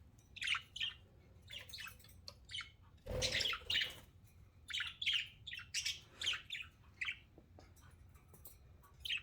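Pet budgerigars chirping in short, separate high calls, with one longer, louder burst about three seconds in.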